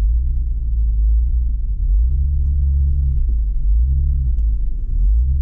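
Jeep Wrangler engine rumbling low on a snowy trail, its note swelling and dropping back several times.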